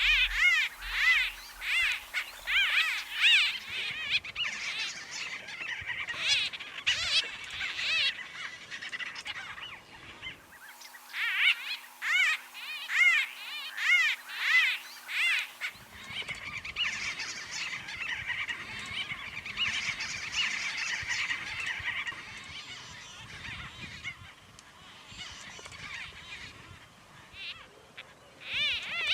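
A flock of white-throated bee-eaters calling: many rapid, short, trilling chirps overlapping into a busy chatter that swells and eases, loudest near the start and again about halfway through.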